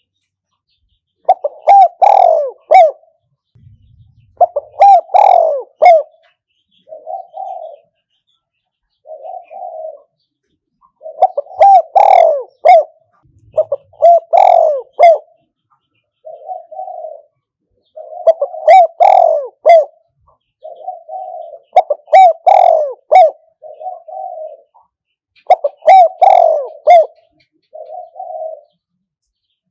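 Spotted dove cooing: a decoy bird repeating its cooing phrase about every three to four seconds, with softer single coos in between.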